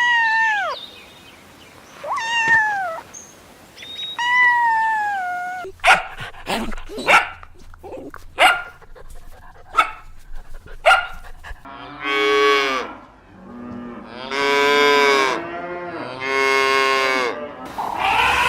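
Three falling, high-pitched cat meows, then a run of short, sharp dog barks, then three long cow moos.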